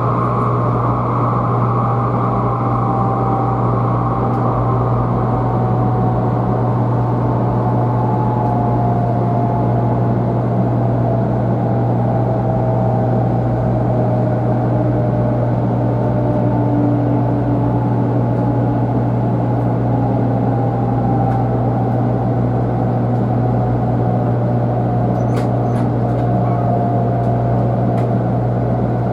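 Running noise of a 500-series Shinkansen train heard inside the passenger car: a steady low hum with a motor whine that slowly falls in pitch as the train slows.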